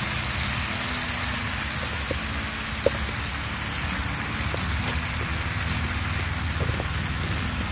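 Sauce and chopped garlic sizzling and bubbling in a wok on a portable gas stove: a steady hiss over a low, even hum, with a few faint ticks.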